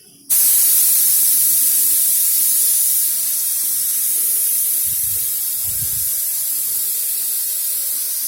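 Compressed-air paint spray gun hissing steadily as the trigger is held, atomising paint onto a car bumper. The spray starts abruptly just after the start and runs without a break.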